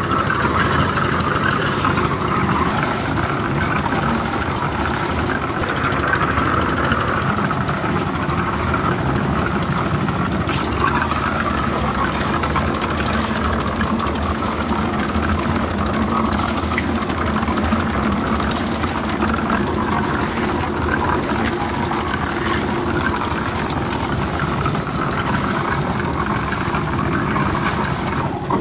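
An engine running steadily at constant speed, without revving or stopping.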